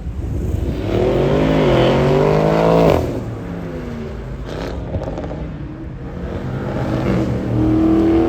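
A car's engine revving hard under acceleration, its pitch climbing for about two seconds before cutting off sharply about three seconds in, as on a lift or gear change. A lower engine note follows, and another engine note rises near the end.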